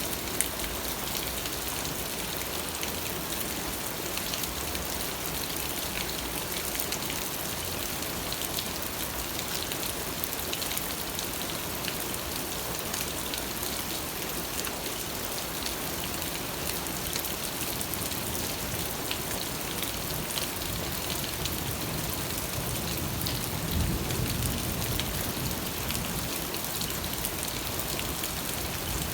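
Steady rain falling, a continuous even hiss with scattered close drop patters. About 24 seconds in there is a brief low rumble swelling under the rain.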